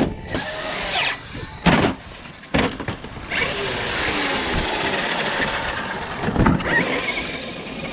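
Brushless electric RC monster truck motors whining as they rev up and down, with a few hard thuds from the trucks hitting the ramp or landing.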